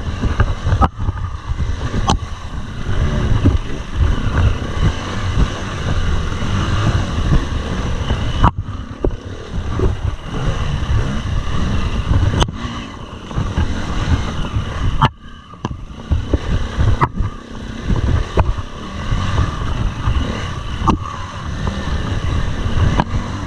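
KTM 350 EXC-F's single-cylinder four-stroke engine running with uneven revs as the bike climbs a steep rocky trail. Sharp knocks are heard every few seconds, and the engine drops off briefly about fifteen seconds in.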